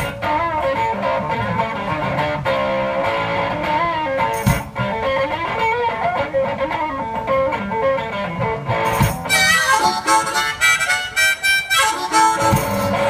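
Live blues instrumental break from a one-man band: a harmonica solo with bending, wailing notes over guitar accompaniment, with a quick, busier run of high notes near the end.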